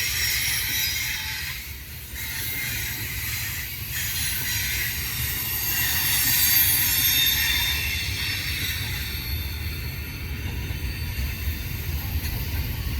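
Double-stack container train's cars rolling past, a steady low rumble under high, thin steel-wheel squeals that hold for seconds at a time.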